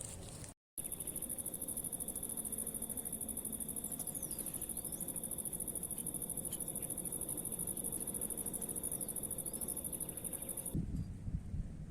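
Loud, steady, high-pitched insect trill of a cricket or similar insect, a continuous fast pulsing chirr. It starts abruptly just under a second in and cuts off suddenly near the end, where wind noise on the microphone takes over.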